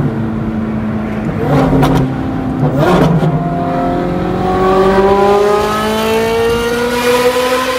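Ferrari 430 Scuderia's 4.3-litre flat-plane V8 with headers and a loud aftermarket exhaust, driven hard. The engine holds a steady note, breaks twice with quick gear changes about one and a half and three seconds in, then pulls under acceleration with a steadily rising pitch.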